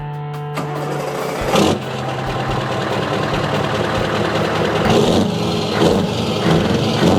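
Music stops about half a second in, giving way to a car engine sound running, with a few louder surges.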